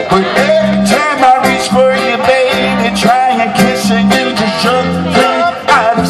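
Live band playing a Motown song, with a singer's voice, bass and drums.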